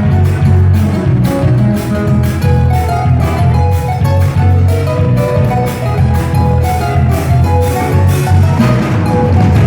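Strummed guitars playing a gato cuyano, an Argentine folk dance tune from the Cuyo region, in a steady, lively rhythm.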